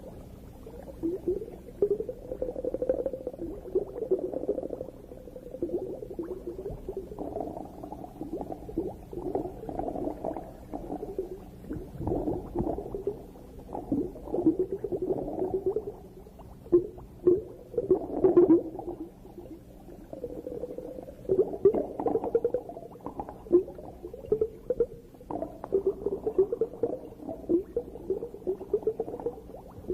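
Underwater bubbling and gurgling, recorded underwater, coming in uneven clusters with a few louder bursts.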